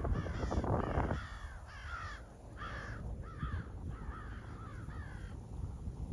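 A crow cawing in a quick run of short, harsh caws, about two to three a second, stopping about five seconds in. A low rumble sits under the first second.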